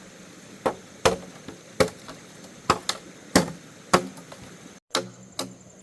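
Repeated chopping strikes with a blade tool: about ten sharp, irregular blows, roughly two a second, with a very brief break in the sound near the end.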